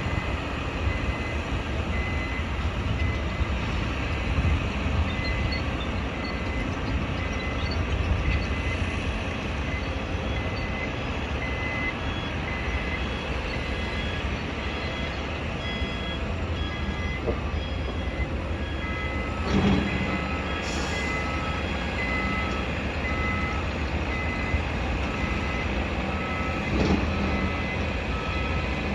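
Construction-site vehicles' reversing alarms beeping in a steady series, about three beeps every two seconds, with a second, higher-pitched alarm joining for a while and a third, lower one starting about two-thirds of the way in, over a low, steady engine rumble. Two dull thuds sound near the end, one of them about twenty seconds in.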